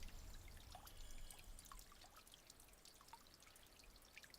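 Near silence: faint room tone with scattered small ticks.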